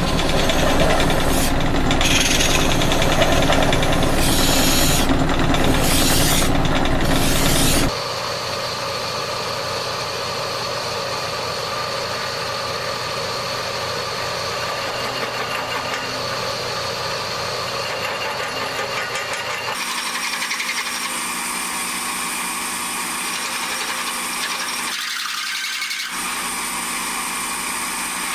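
Power drill boring out a pin hole in a steel loader arm, the cutter grinding loudly through the steel. About eight seconds in it drops suddenly to a quieter, steady running, with another change in tone near the end.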